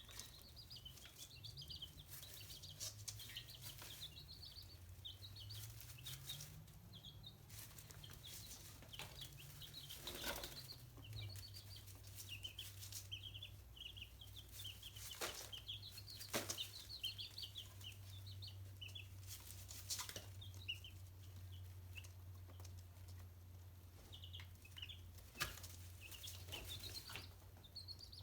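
Chicks peeping, a steady stream of short high cheeps, with scattered sharp taps and a faint low hum underneath.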